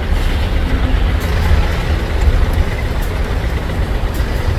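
Tuk-tuk engine running steadily while driving through floodwater, heard from on board as a low rumble under a steady rushing noise.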